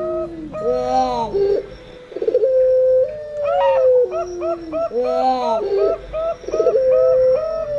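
Puter pelung doves cooing: long drawn calls, each a held note that slides downward, repeating about every four seconds. Zebra doves (perkutut) coo over them in quick short notes.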